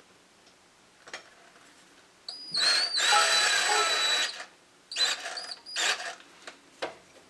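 Power drill driving a flathead screw into a pre-drilled hole: one run of about two seconds with a whining motor, then a few short bursts and a click near the end.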